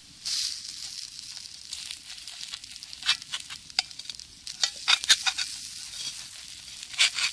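Food sizzling in a cast-iron skillet over a wood fire: a steady hiss with sharp pops and crackles, most of them bunched about three to five seconds in and again near the end.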